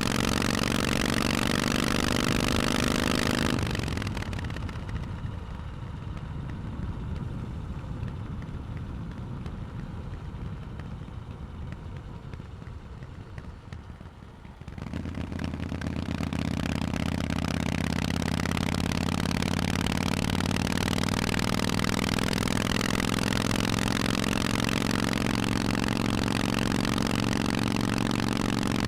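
Harley-Davidson Forty-Eight's air-cooled 1200 cc V-twin with Vance & Hines exhausts running loud and steady. About four seconds in it falls away to a quieter, duller low rumble for roughly ten seconds. At about fifteen seconds the full exhaust note returns and holds steady.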